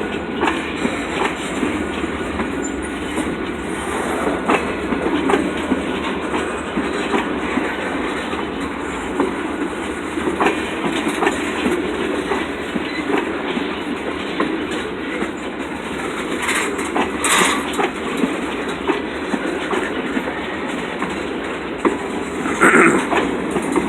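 Freight train cars rolling past at a grade crossing, their wheels clicking steadily over the rail joints. Brief wheel squeals come about two-thirds of the way through and again near the end.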